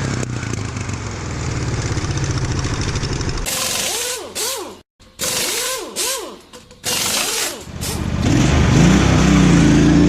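Offroad lawn tractor's engine running steadily for a few seconds. It is cut off by a string of loud, sudden bursts with short swooping tones, then a rising pitched sweep near the end, typical of an edited outro.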